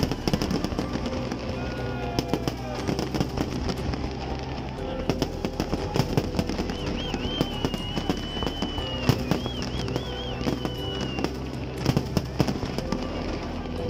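Aerial fireworks display: a dense, continuous run of shell bursts with sharp bangs and crackles.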